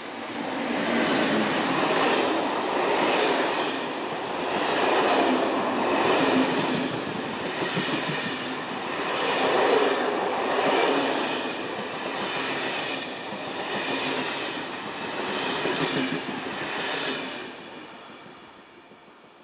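A train passing by, its wagons clattering over the rails in a rhythm of loud swells every second or two, then fading away near the end.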